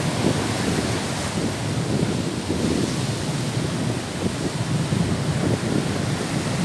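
Wind buffeting the microphone in low, uneven gusts over a steady wash of Baltic Sea surf.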